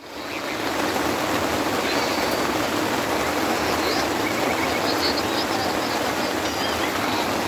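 A steady rushing noise like water or rain fades in over the first half second and holds evenly, with faint high chirps over it.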